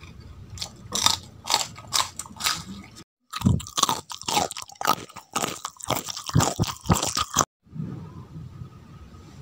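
Close-miked crunching bites and chewing of crisp food in two spells, split by a brief silent cut about three seconds in. The crunching stops abruptly near the end, leaving only low room noise.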